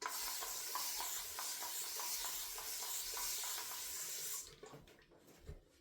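Water tap running for about four and a half seconds, switched on suddenly and shut off, as water is added to a shaving-soap lather.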